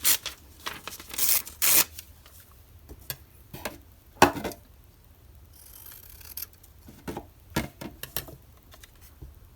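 Magazine paper cutouts being handled on a tabletop: scattered rustles and light taps, with one sharper tap about four seconds in and a brief soft rub of paper around six seconds.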